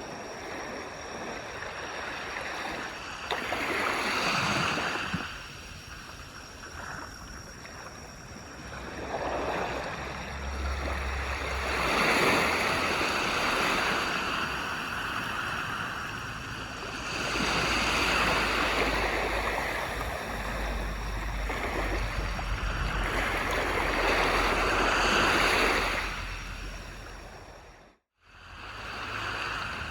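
Sea waves washing onto a beach, the surf swelling and ebbing every four to six seconds. The sound cuts out abruptly for a moment near the end and then returns.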